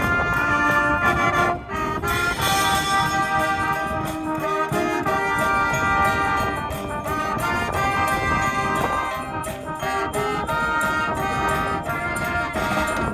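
School brass band playing a send-off tune, with trumpets and trombones over a steady percussion beat.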